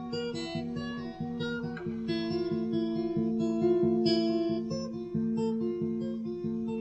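Acoustic guitar playing an instrumental passage, chords plucked and strummed in a steady rhythm of about three strokes a second.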